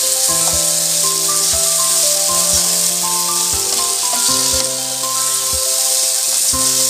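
Chicken pieces sizzling in hot oil and onion-tomato masala in a kadai, a steady hiss as they fry, under instrumental background music with held notes and a regular beat.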